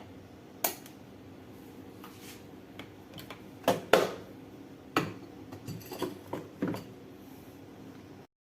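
Kitchenware being handled: a series of sharp clinks and knocks, the loudest pair about four seconds in, with a cluster of lighter clicks after it. The sound cuts off abruptly just before the end.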